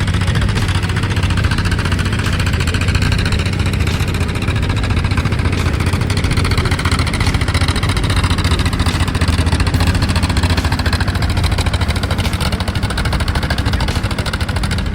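Heavy truck engine running steadily, with a strong low hum and a fast even pulsing.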